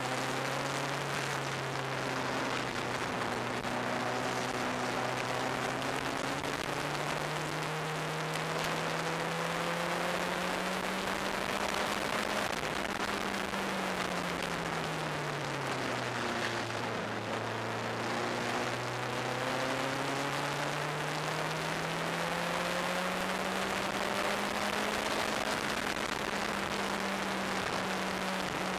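Turbocharged engine of an open-cockpit track car heard from the cockpit under a heavy rush of wind noise. The engine note climbs slowly, falls over a few seconds a little past halfway as the car slows, then climbs again.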